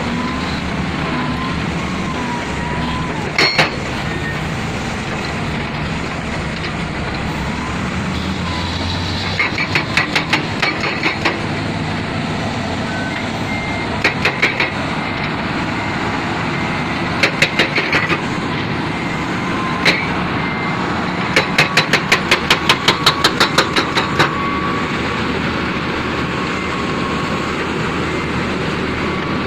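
Heavy construction machinery running steadily, with several short runs of rapid, regular knocking at about four knocks a second; the longest run comes about two-thirds of the way through.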